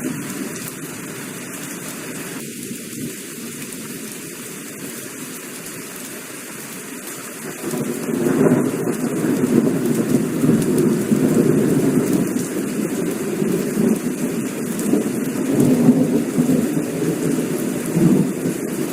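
Heavy rain falling steadily with rolling thunder; the thunder's rumble swells and grows louder about eight seconds in and keeps rolling.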